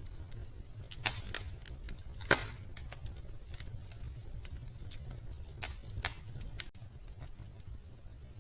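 Wood fire crackling in a fireplace: irregular sharp pops and snaps, the loudest about two seconds in, over a steady low rumble.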